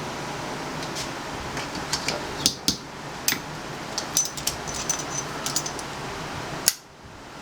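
Light clicks and taps of small metal parts being handled, a few sharp ones spread through, the loudest near the end. They sit over a steady shop fan noise that drops away suddenly right after that last click.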